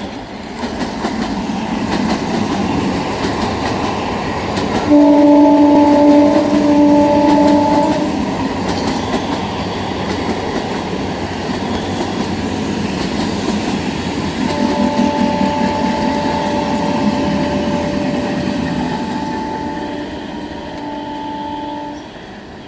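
Indian Railways EMU local train running on the track with a steady rumble and wheel clatter. Its multi-tone horn sounds twice about five seconds in, then again in a long call of about seven seconds from about fourteen seconds in.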